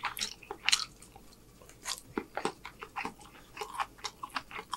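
Close-miked chewing of a mouthful of Blazin' Bourbon Chicken and rice, with irregular short wet clicks and smacks of the mouth.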